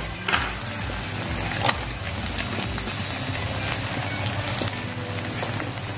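Chopped chicken gizzards, liver and vegetables sizzling steadily in a wok, with two brief clicks early on and background music underneath.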